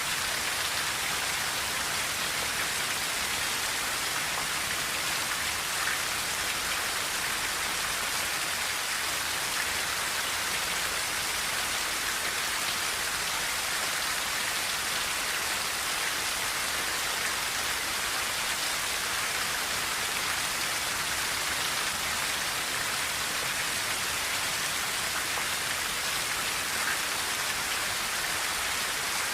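Steady rain falling on a tin roof: an even, unbroken hiss of many drops, strongest in the high range, with no thunder.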